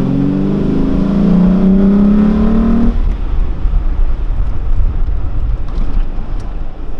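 Golf 4 Cabrio's swapped-in 2.8-litre VR6 engine pulling under acceleration, heard from inside the cabin, its note rising steadily for about three seconds. It then drops away abruptly, leaving a low rumble as the car rolls on.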